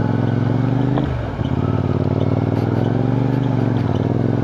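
CFMoto 450NK's parallel-twin engine running under way, its pitch dipping sharply and climbing back about a second in, as on a gear change.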